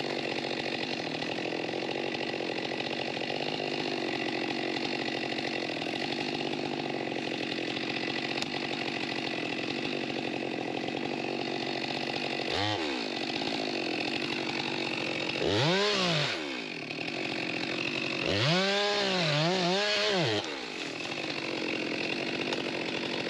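Two-stroke Stihl chainsaw idling steadily, then revved up three times: briefly about halfway through, again a few seconds later, and for about two seconds near the end, its pitch rising, dipping and recovering before it drops back to idle.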